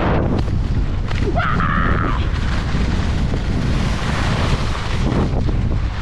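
Wind buffeting the microphone in a steady low rumble during a downhill ski run, with a brief higher tone about a second and a half in.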